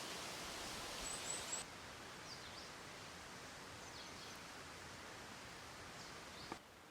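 Woodland ambience: a steady hiss of outdoor background noise with a few short, high bird chirps and faint descending bird calls. A single sharp click comes near the end.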